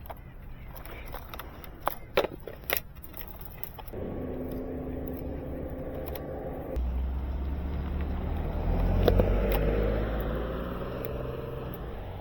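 A motor vehicle's engine running, growing louder to a peak about nine seconds in with a rising whine, then fading. Several sharp clicks come before it in the first three seconds.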